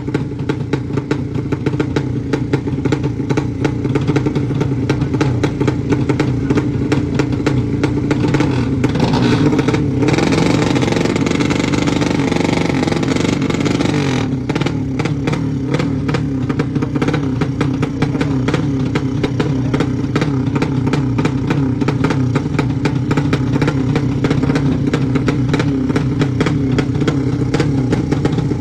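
Racing motorcycle engine running hard with rapid firing, rising to a higher, fuller rev from about nine to fourteen seconds in, then settling back.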